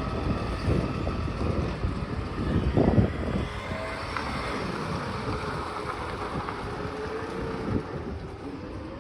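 A garbage truck running, its engine rumble surging loudly a few times in the first three seconds, then settling into a steadier, quieter run with a faint wavering whine.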